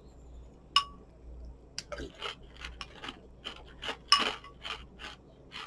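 A spoon clinks against a cereal bowl, with a ringing clink just under a second in and a louder one about four seconds in. Between them come short crunching strokes a few times a second as a mouthful of sugar-frosted corn flakes is chewed.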